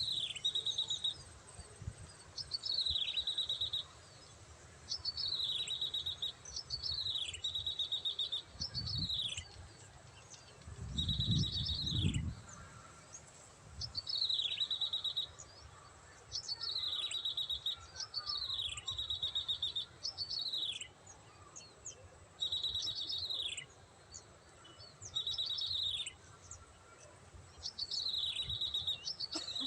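Prinia (prenjak) calls: the same phrase repeated about every two seconds, a quick falling whistle with a short buzzy trill. A low rumble comes in briefly about eleven seconds in.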